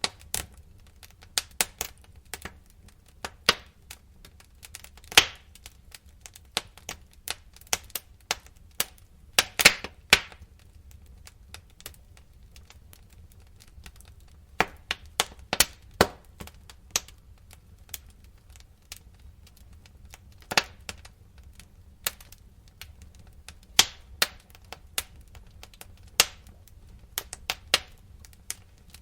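Wood fire crackling, with irregular sharp pops and snaps over a low steady rumble, the loudest run of pops about ten seconds in.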